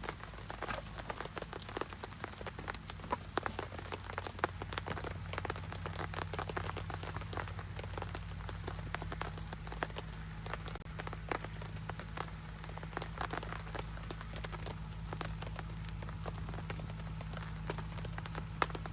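Steady rain, many close drops pattering and ticking sharply, over a faint steady low hum.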